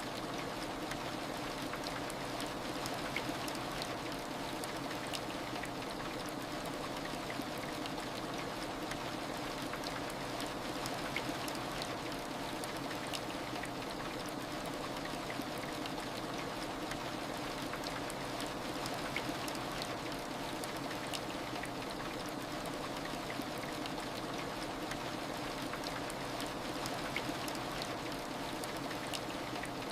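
Steady heavy rain, an even wash of noise with scattered droplet ticks.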